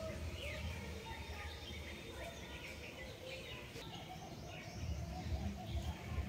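Several birds chirping and calling among trees, in many short, quick chirps. A low rumble underneath grows stronger near the end.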